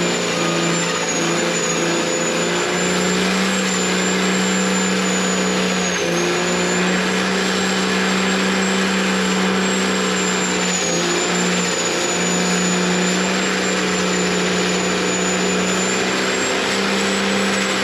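Diesel truck engine running steadily at high revs, with a thin high-pitched whine above it that dips briefly a few times.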